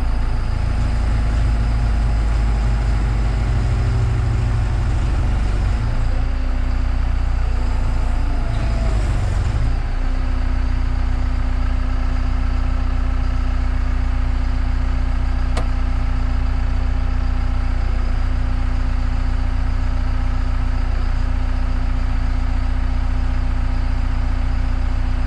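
Caterpillar IT-24 tool carrier's diesel engine running steadily. For about the first ten seconds it runs heavier and uneven, then it settles to an even idle.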